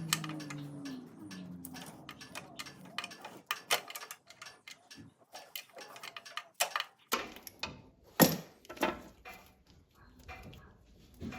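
Irregular sharp clicks and light knocks, spaced unevenly, with a louder knock about eight seconds in; a low steady hum fades out in the first second or two.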